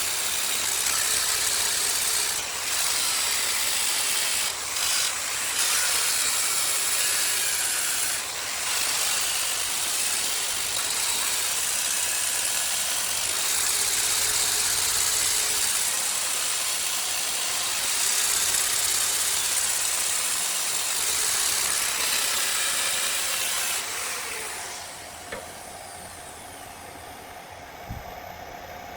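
A power tool working wood: a steady, harsh hiss with a few brief dips, which stops about 25 seconds in.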